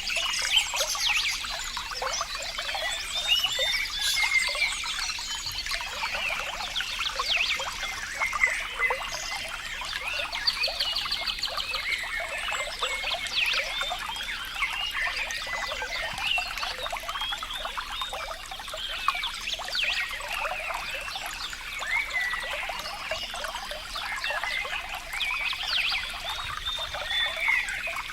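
Water trickling and bubbling steadily, a dense patter of small splashes and gurgles.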